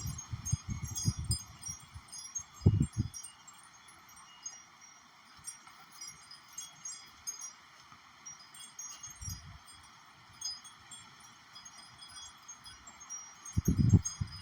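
Wind chimes ringing on and off in a gusty wind storm, with scattered pings over lingering tones. Gusts buffet the microphone with low rumbles near the start, around the three-second mark, briefly around the middle, and again near the end.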